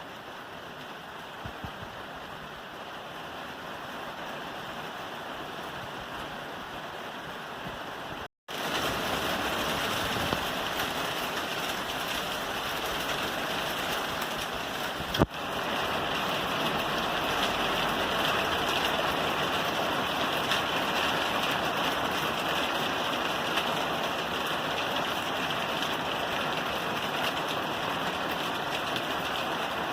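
Steady rain falling on a roof. It drops out for a moment about eight seconds in, then comes back louder, with one sharp click about halfway through.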